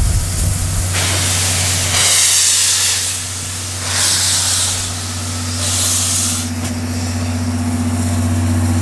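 Steam locomotive working slowly: four hissing blasts of exhaust steam, roughly one every second and a half, over a steady low hum.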